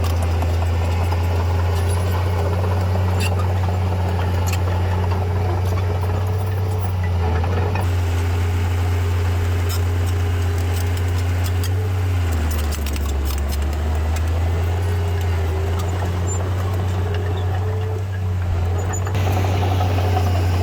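Heavy diesel earthmoving machinery running with a steady deep drone; its engine note drops lower for a couple of seconds about two-thirds of the way through, then comes back up. Scattered light clanks sound over it.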